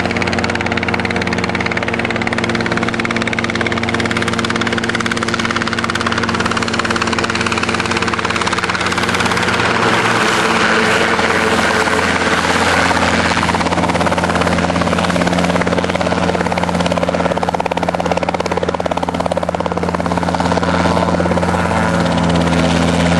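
Robinson R22 Beta II helicopter running close by: a steady drone of its two-blade rotor and piston engine, which shifts in pitch about ten seconds in and grows slightly louder.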